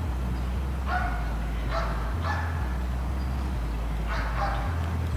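A dog barking about four times in short yaps, over a steady low rumble.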